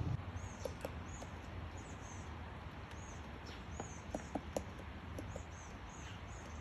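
Small birds calling in a forest: a string of short, high chirps, each a quick rise and fall, about two a second. A few sharp ticks come about four seconds in, over a faint steady background hush.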